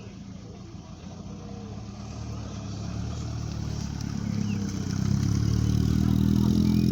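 Lotus Elan's engine running as the car pulls away from the meet, a steady low note that grows louder over the first five seconds as it comes closer, then holds.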